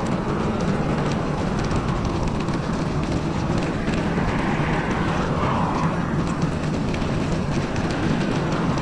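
Steady rumbling, rushing noise of a bicycle ride on a snowy trail, wind and rolling noise without a break.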